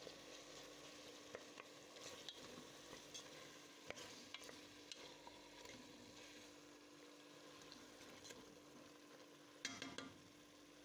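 Faint sizzle of chicken pieces and chopped onion frying in a metal pot, stirred with a wooden spoon that knocks and scrapes against the pot now and then, with a quick run of knocks near the end. A steady low hum runs underneath.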